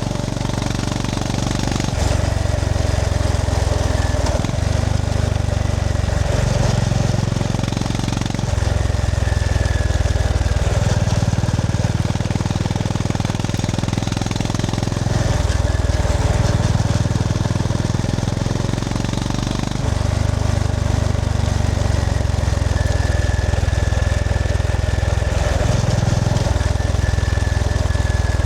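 Honda GB350S's single-cylinder engine pulsing under way, its note stepping up and down every few seconds as the throttle opens and closes, over steady wind and road noise.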